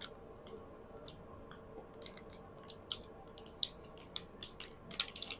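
A Mylar bag crinkling and crackling in irregular short snaps as it is handled and slit open, a few louder crackles about three seconds in and near the end.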